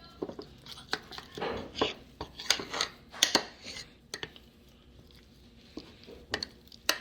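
Spoon stirring a thick, fairly dry mix of sourdough starter, flour and water in a bottle: irregular clinks and scrapes against the container. It eases off about four seconds in and picks up again with sharp clicks near the end.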